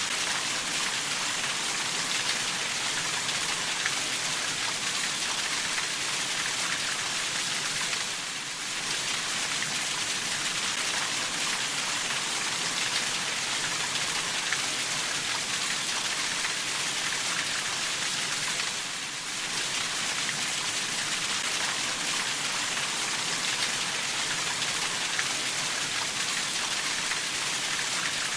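Steady rainfall, an even hiss of many drops, dipping slightly in level twice.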